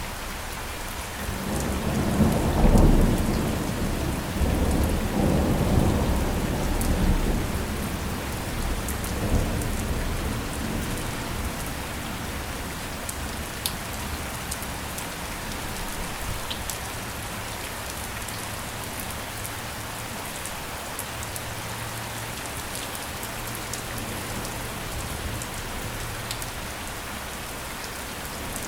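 Steady heavy rain with scattered raindrop ticks. A roll of thunder swells in about a second and a half in, peaks around three seconds, and rumbles away over the next several seconds.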